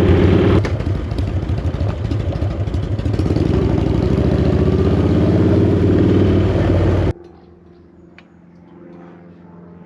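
Chopper motorcycle engine running loudly while riding, its pitch climbing for a few seconds midway as it speeds up. The engine sound cuts off abruptly about seven seconds in, leaving faint quiet room tone.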